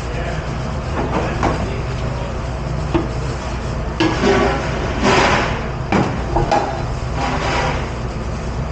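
Restaurant dish pit: a steady machine drone, with irregular clanks and knocks of dishes and racks being handled, and a few short rushes of noise around the middle.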